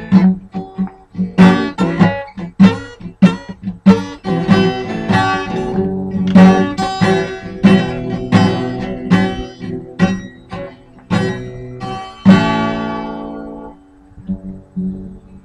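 Acoustic guitar strumming a blues ending, closing on a final chord about twelve seconds in that rings out and fades.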